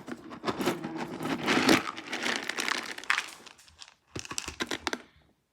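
Crinkling and rustling of a dog-food bag being handled, with many small clicks, in two spells with a brief pause about four seconds in.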